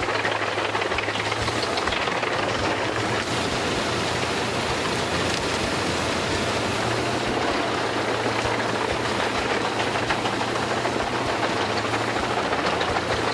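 Albach Diamant 2000 wood chipper running under load and chipping wood: a steady engine hum under a dense, continuous crackle of wood being cut into chips.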